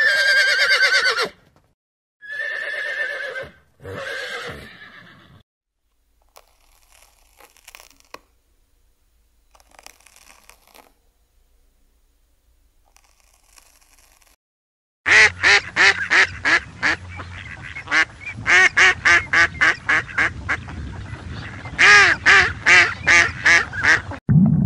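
A horse whinnying in three loud calls, then a quiet stretch, then from about fifteen seconds a rapid run of short quacking calls, several a second, from ducks.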